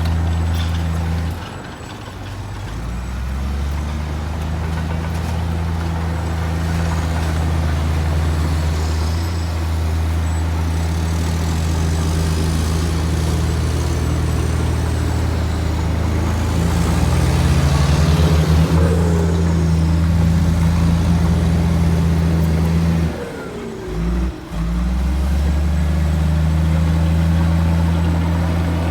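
Heavy diesel engine of earthmoving machinery running steadily under load, its low rumble dipping briefly twice, once near the start and once about three-quarters of the way through.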